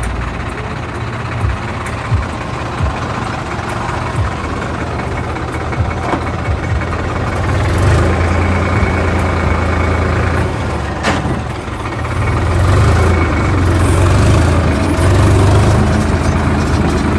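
A tractor's diesel engine running with a steady low clatter. It grows louder about halfway through and again later, as if opened up. There is one sharp click about eleven seconds in.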